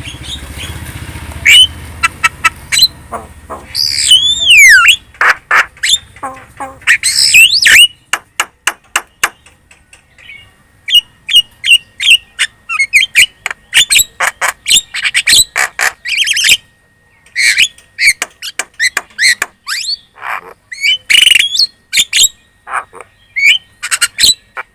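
Javan myna chattering in full voice: a fast, unbroken run of harsh squawks, clicks and short whistled notes, with a drawn-out falling whistle about four seconds in.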